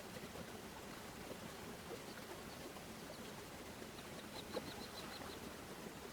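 A bird gives a quick run of about eight short, high chirps about four seconds in, over a faint steady hiss, with one sharp click among them.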